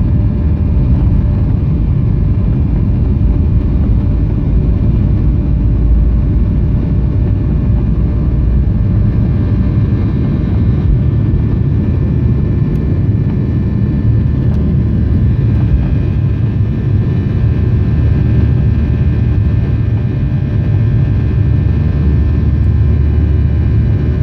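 Boeing 737 jet engines running at high thrust during takeoff: a loud, steady low rumble with a steady whine above it.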